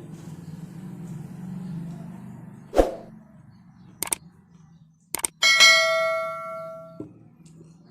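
Metal dishes knocking while eating: a dull knock, a few sharp clicks, then a loud clang about five and a half seconds in that rings for about a second and a half. A low steady hum runs underneath.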